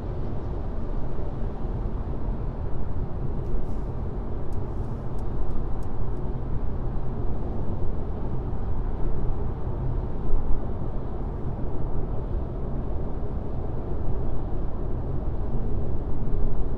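Steady road noise of a car driving on a highway, a low rumble of tyres and engine. A few faint light ticks come about a third of the way in.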